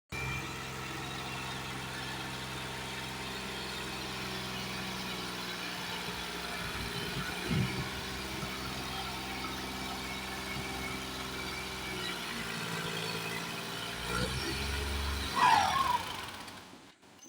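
Tractor diesel engine running steadily, its pitch shifting slightly a few times, with a short louder burst about two seconds before it stops.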